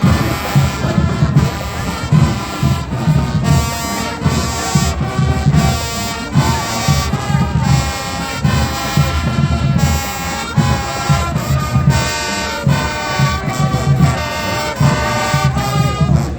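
High school marching band playing a tune: brass horns carrying the melody over a steady pounding drum beat.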